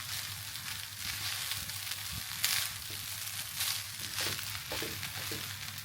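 Chicken fried rice sizzling in a hot pan: a steady frying hiss that swells a few times, over a low steady hum.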